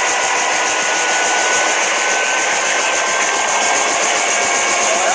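Helicopter running steadily: an even, loud hiss of engine and rotor noise with faint steady whining tones.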